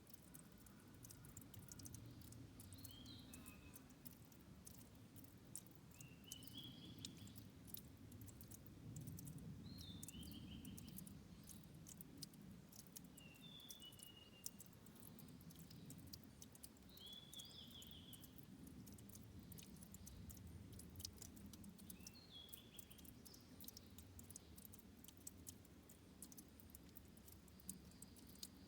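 Faint trickle of a forest headwater stream, with many tiny drips and clicks. A songbird repeats a short high phrase of a few quick notes about every three to four seconds.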